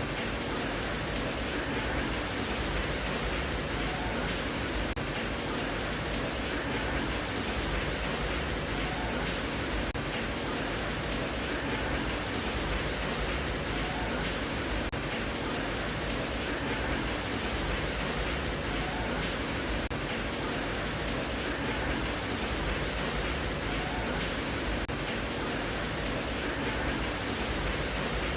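Steady rain, an even hiss that does not pause or change.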